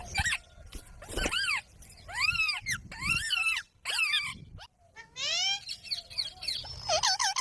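Pet green parrot calling in a series of short, arching calls with gaps between them, and a quick run of calls near the end.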